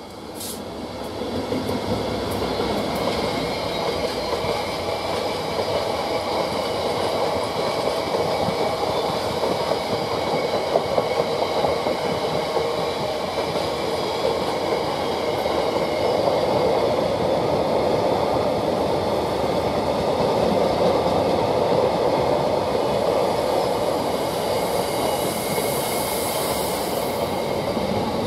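A freight train rolling past close by: a steady rumble and rattle of wagon wheels over the rails, with a thin, steady high-pitched ringing above it. The sound swells quickly in the first two seconds and then holds loud.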